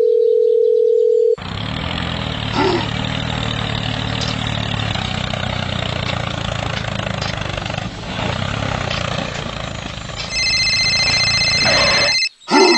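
A steady electronic beep tone for just over a second, then a tractor engine sound running steadily with a low throb. About ten seconds in, a high electronic phone-ringing tone joins and runs on over the engine.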